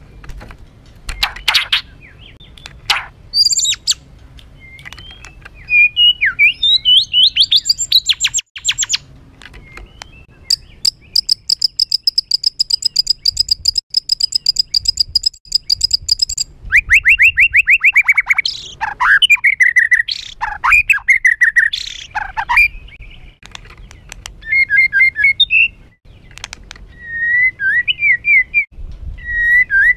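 White-rumped shama singing an agitated, harsh song: sharp calls, a long fast rattle of high repeated notes near the middle, then a rapid descending run and loud whistled phrases, ending in short warbles.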